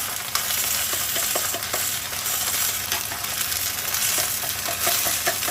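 Prawns sizzling in hot oil in a pan as they are stirred, a steady frying hiss with scattered small taps and scrapes of the utensil.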